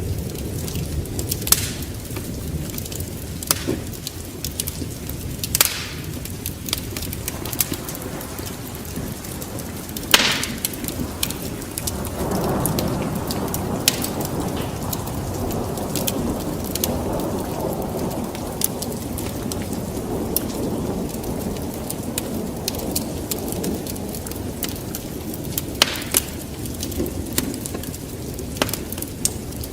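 Steady rain with a crackling wood fire popping sharply now and then; about twelve seconds in a long roll of thunder swells up and rumbles on, slowly fading.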